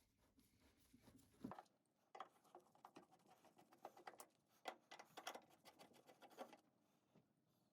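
Faint, irregular clicks and taps, as of tools and small parts being handled during washing-machine disassembly, starting about a second and a half in and stopping near the end. A low background hum cuts off just as the tapping begins.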